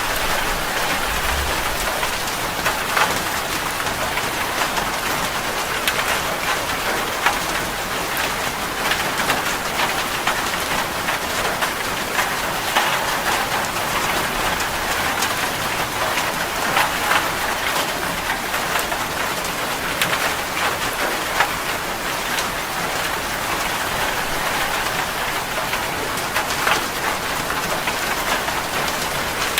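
Heavy rain falling on a metal roof: a dense, steady patter of many individual drop hits.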